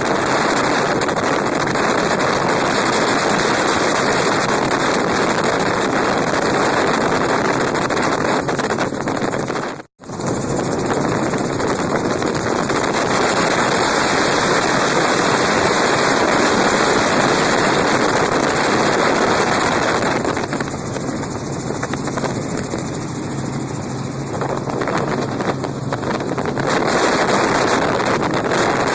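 Helicopter in flight: steady, loud rotor and engine noise with air rushing past. It cuts out for a split second about ten seconds in and is a little quieter for several seconds later on.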